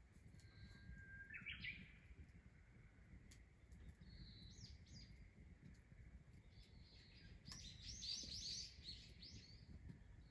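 Small bird calling faintly: a few short high chirps about a second and a half in and again around four seconds, then a quick run of chirps near the end.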